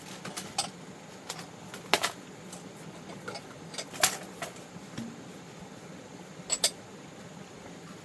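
Bowls clinking as they are gathered up and put away: a scattering of sharp clinks, the loudest about two seconds in, at four seconds, and a quick double clink past six and a half seconds.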